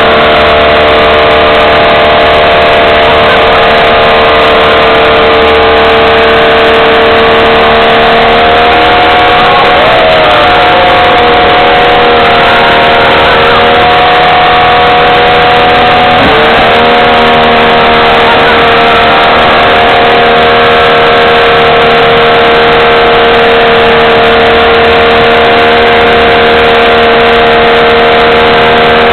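Jeep Wrangler engine held at high revs in a stationary burnout, the rear tyres spinning against the trailer deck; loud and steady, with the revs sagging briefly twice and coming back up.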